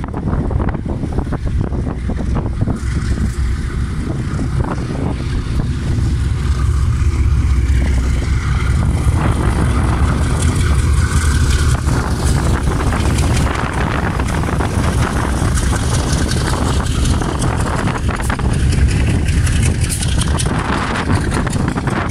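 Diesel freight locomotive passing with its engine running, a deep steady rumble that is loudest about eight to twelve seconds in. Empty open freight wagons follow, rattling and clanking as they roll by.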